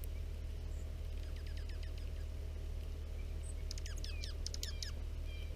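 Small wild birds chirping at a feeder: a run of short falling chirps about a second in, then a louder, quicker run of chirps near the middle, over a steady low hum.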